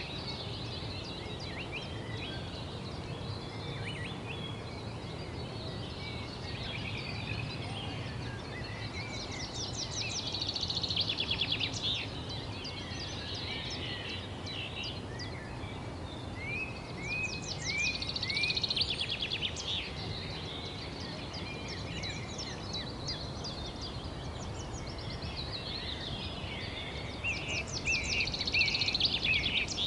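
Wild birds singing: three loud bursts of rapid trilled notes, about eight seconds apart, with scattered chirps in between, over a steady low background rumble.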